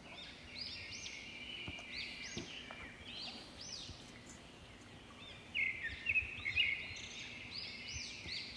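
Birds chirping in the background, a run of short rising-and-falling notes, one or two a second, a little louder in the second half.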